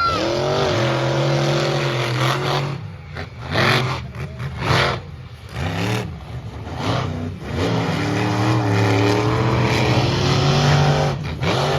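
Monster truck engine revving and running loud, its pitch rising and falling, with a run of short, sharp throttle blips in the middle.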